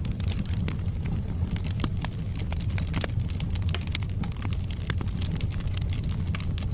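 Wood fire of burning logs in a fireplace crackling: irregular sharp pops and snaps over a steady low rumble of the flames.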